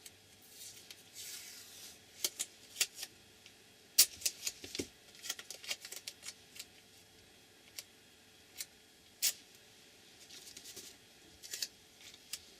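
Washi tape being handled and cut: scattered sharp clicks and ticks with a few short, soft rustles.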